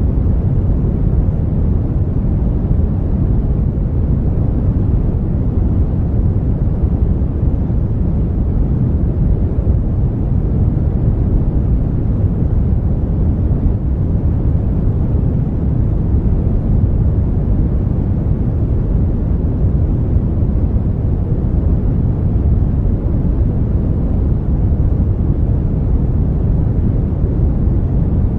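Brown noise: a steady, deep rushing hiss, strongest in the low end and dull in the highs, unchanging throughout.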